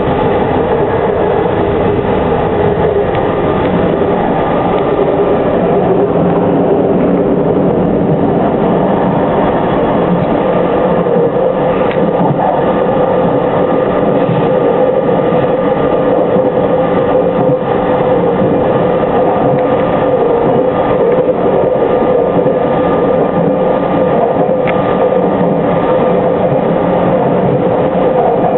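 JR Shikoku 8000 series electric train running, a steady rail running noise with a constant hum in it.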